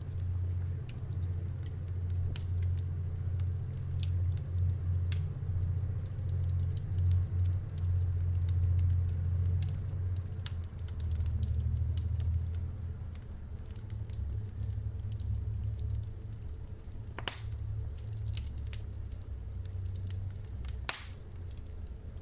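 Wood fire burning in a fireplace: a steady low rumble of the flames with irregular crackles and snaps, and two louder pops in the second half.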